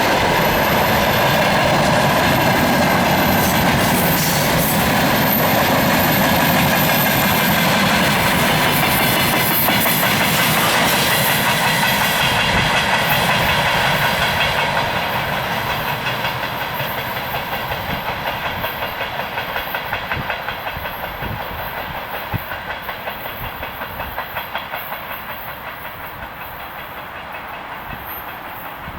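Freight train wagons rolling past on the rails, wheels clacking over the rail joints. Loud and steady for about the first half, then fading steadily as the train moves away.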